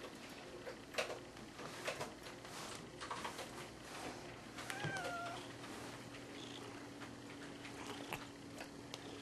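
Domestic cat giving one short meow about five seconds in, with scattered rustling and tapping sounds before it.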